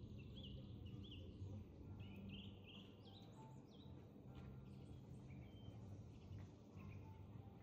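Birds chirping faintly: a quick run of short, repeated chirps at the start, then scattered calls, over a faint low background rumble.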